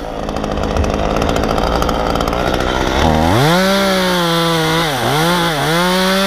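Efco MTT 3600 top-handle chainsaw running; about three seconds in it revs up to a high, steady speed, and its pitch dips briefly twice soon after.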